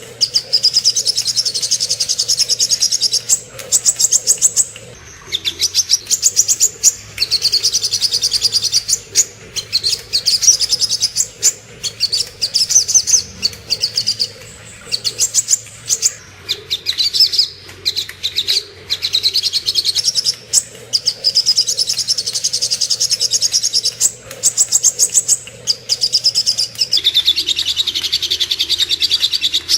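Sogok ontong (little spiderhunter) calling: rapid, high, sharp chip notes run together in phrases of one to two seconds with short pauses, repeated over and over.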